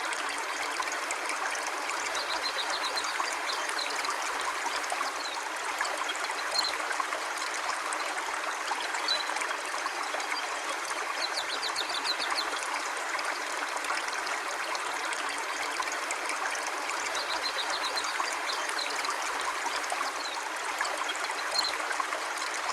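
River water flowing steadily, a continuous rushing stream, with faint high chirps now and then.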